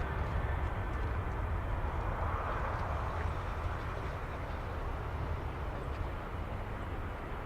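Jet roar from the four CFM56 engines of a Swiss Airbus A340-300 climbing away after takeoff, a deep rumble that fades gradually.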